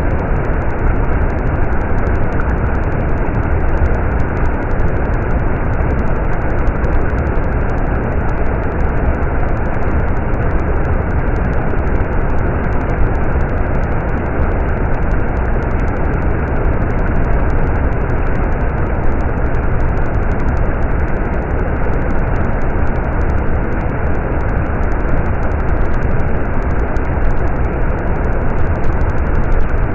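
Stream water running steadily: an even, unbroken rushing noise, heaviest in the low end.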